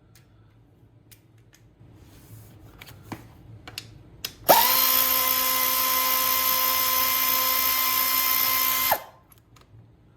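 A power drill/driver spins up fast about halfway through and runs at a steady high whine for about four and a half seconds, then stops sharply, typical of backing out one of the 8mm bolts that hold the GY6 engine's cooling housing. Light clicks of tool and part handling come before it.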